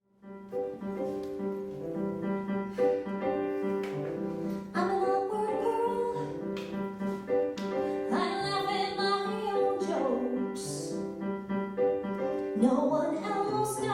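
Piano playing a song introduction of repeated sustained chords. From about five seconds in, a female voice sings wordless sliding runs over it, several times.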